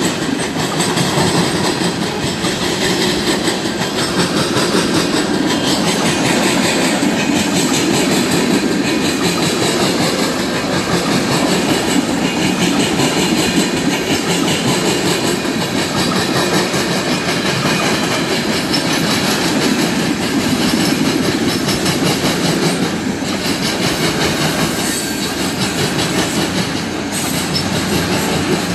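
Freight train of tank cars and covered hopper cars rolling past close by: a steady rumble of steel wheels on rail, with a constant run of clacks as the trucks cross rail joints.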